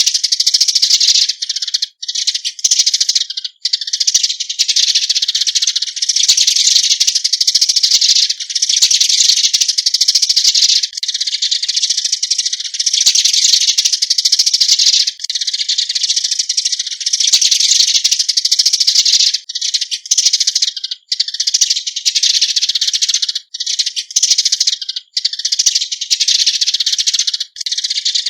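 Eurasian tree sparrow calls: rapid, high chirping, nearly continuous with a few brief breaks.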